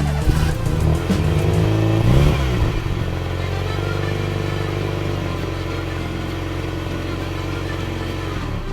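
Engine revving, its pitch sweeping up and down in the first couple of seconds, then settling into a steady drone that cuts off suddenly near the end.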